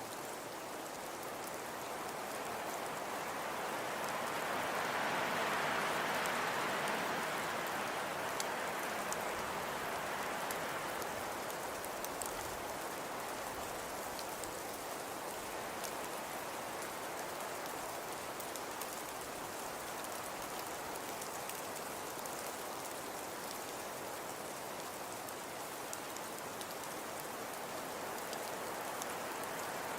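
Fireplace crackling softly: a steady hiss dotted with fine, scattered crackles, swelling a little a few seconds in and then settling.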